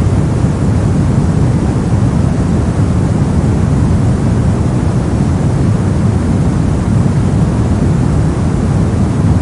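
Steady soft noise of the sleep-noise kind, a deep even rush weighted toward the low end, with no change or events.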